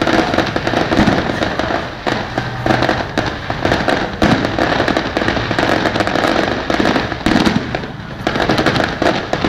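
Fireworks display going off: dense, continuous rapid cracking and popping of many shells and firecrackers at once, with occasional deeper booms.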